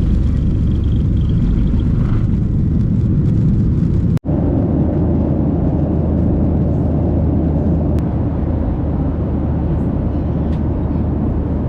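Steady drone of a passenger airliner heard from inside the cabin, heavy in the low end with a constant hum. It breaks off for an instant about four seconds in and resumes a little brighter.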